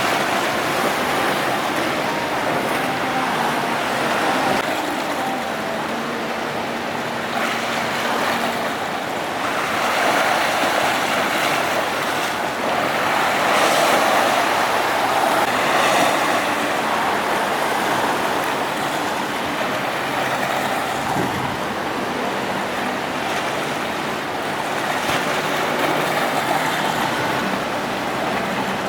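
Rough sea: waves breaking and surging in strong wind, a continuous rushing noise that swells and eases every few seconds.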